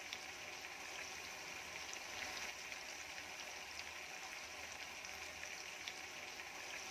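Chicken pieces frying in oil in a pan: a faint, steady sizzle with scattered small pops.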